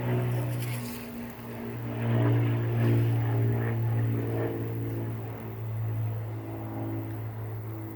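Steady low engine drone, with fainter pitched tones above it that shift every second or so.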